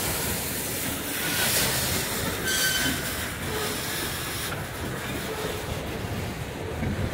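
Loaded freight train of covered hopper cars passing close by: a steady rumble and rattle of steel wheels on the rail joints, with a couple of brief, faint wheel squeals about one and two and a half seconds in.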